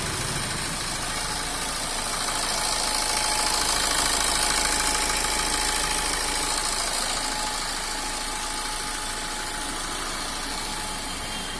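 Maruti Swift diesel engine running at idle, with a steady hiss over it; the sound swells a little louder a few seconds in, then eases back.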